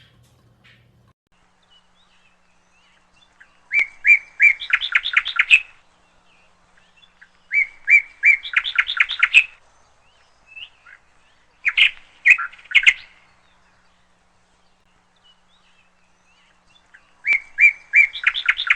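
A small bird chirping in four short bursts a few seconds apart. Each burst is a few quick notes that run into a fast string of chirps.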